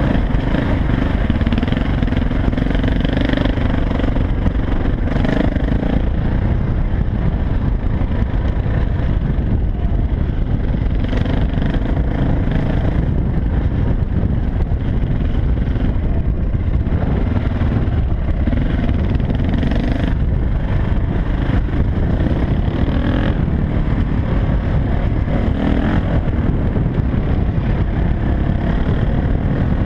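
Dirt bike engine running while riding, its note rising and falling every few seconds with the throttle.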